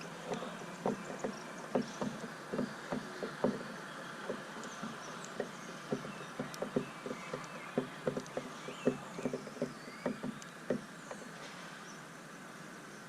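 Birds pecking at seed on a feeder: irregular light taps, several a second in places, with a few faint high chirps. The tapping thins out over the last second or so.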